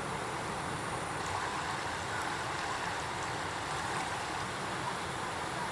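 Rushing water of a mountain stream, a steady even noise.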